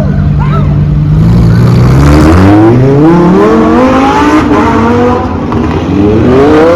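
Performance car engine running at a steady low speed, then accelerating hard from about a second in, its pitch climbing and dropping back several times as it shifts up through the gears.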